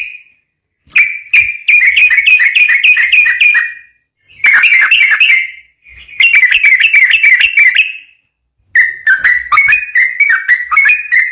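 Yellow-vented bulbul (trucukan) singing its rapid chattering 'ropel' song: four quick runs of notes with short silent breaks between them.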